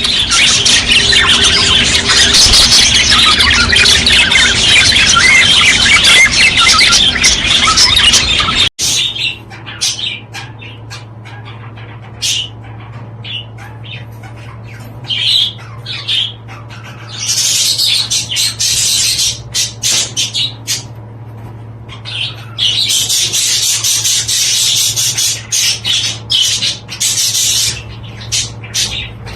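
Budgerigars chattering and warbling: a loud, dense chorus for about the first nine seconds that cuts off abruptly, then quieter bursts of chatter over a steady low hum.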